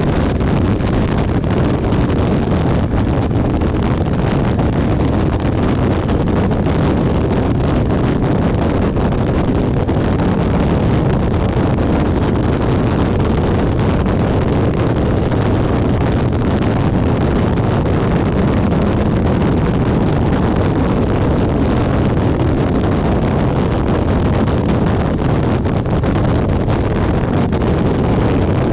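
Wind noise on the microphone and a motorcycle engine running at a steady cruising speed, with no change in pitch or level.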